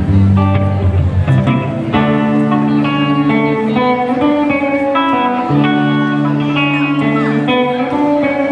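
Live band music: an instrumental break between sung lines, led by a guitar picking a run of short melodic notes over a steady bass.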